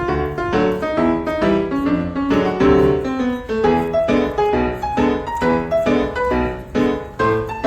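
Background piano music with quick separate notes at an even pace.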